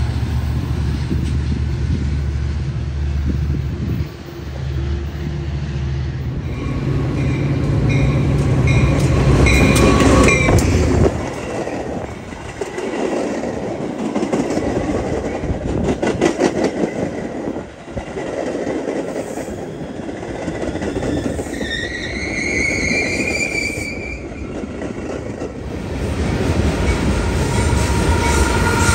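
A train going by on the rails: a deep steady rumble for the first ten seconds or so, then wheels clicking rapidly over the rail joints, and a rising squeal of wheels about two-thirds of the way through.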